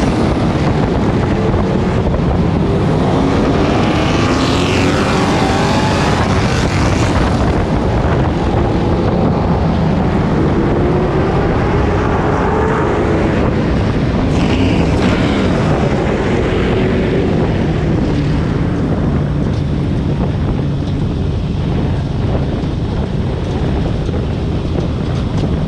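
Pro Truck race truck's engine heard from onboard the cab, its pitch rising and falling as the throttle is worked, with wind rushing over the microphone.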